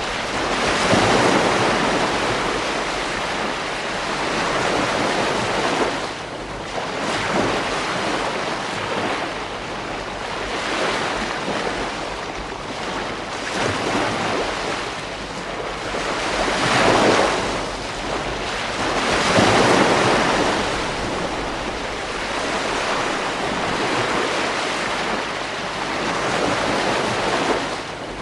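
Ocean waves breaking and washing on a beach, a steady surf wash that swells as each wave breaks, every few seconds, with a strong break about two-thirds of the way in.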